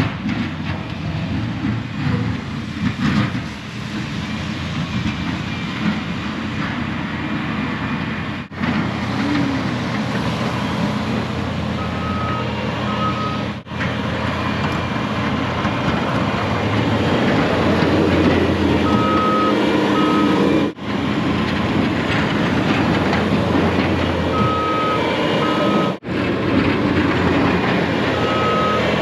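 Snow-removal vehicle engine running under load, with a reversing alarm beeping in short pairs every few seconds. The sound breaks off sharply at several edit cuts.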